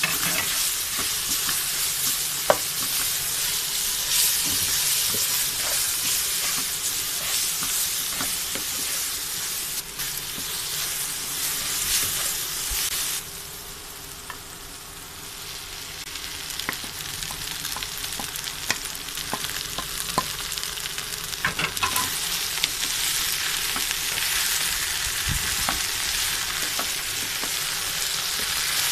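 Onion-tomato masala frying and sizzling in a non-stick wok while stirred with a wooden spatula, with scattered clicks and taps of the spatula against the pan. The sizzle drops suddenly about halfway through, then builds back up as chopped okra fries and is stirred.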